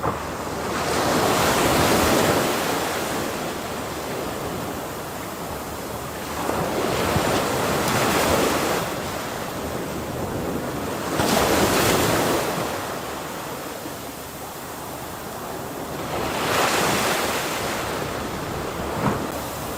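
Ocean waves breaking one after another, a steady wash of surf that swells and fades four times, each surge building over a second or two and washing out.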